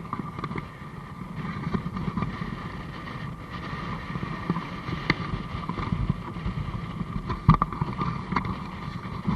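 Strong wind buffeting the microphone as a steady rumble over a constant hum, with a few sharp knocks, the loudest about seven and a half seconds in.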